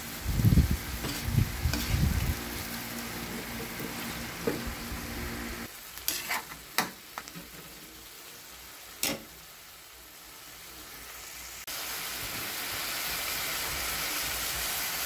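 Chicken pieces sizzling in a pan of hot oil and juices, with stirring knocks and scrapes in the first couple of seconds. A few sharp clicks come midway, and the sizzle drops lower, then steps up louder about twelve seconds in.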